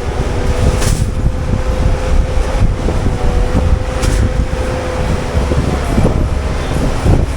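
CAT 299D3 XE compact track loader running a Fecon forestry mulcher head: a loud, steady heavy machine drone with a held whine over it, broken by a couple of short sharp cracks.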